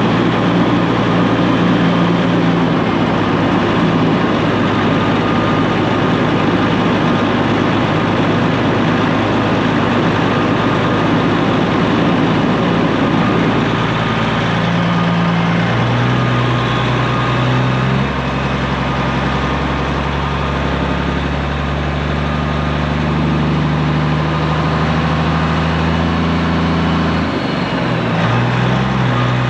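Straight-piped Peterbilt 389 semi truck's diesel engine pulling a load of soybeans. Its note steps down and back up in pitch several times in the second half.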